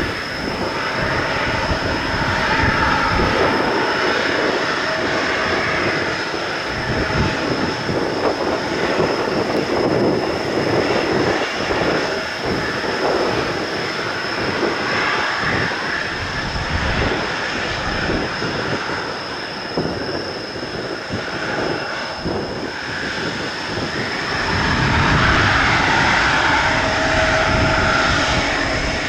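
Jet airliner's engines running on the runway, a steady roar with a high whine, swelling louder about 25 seconds in. Strong wind buffets the microphone with low rumbling gusts.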